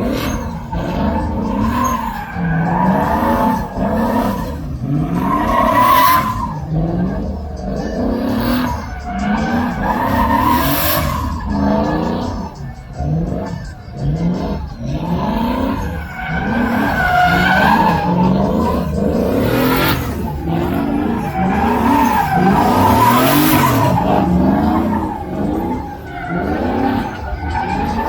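Truck engine revving hard over and over, its pitch rising and falling about once a second. Several brief noisy rushes cut in along the way.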